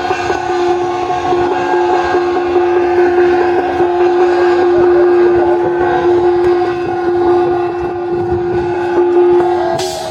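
Chinese ritual band: a suona shawm holding one long, loud, steady note over a busy beat of drums and gongs, with a cymbal-like crash near the end.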